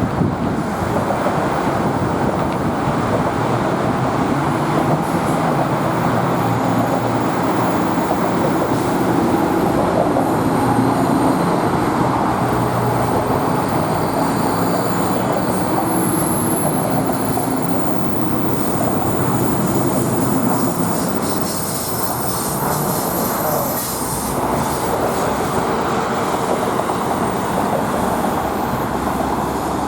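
Commuter train rolling through a station at low speed, its steel wheels squealing on the rails over a steady rumble. The squeal is loudest about halfway through.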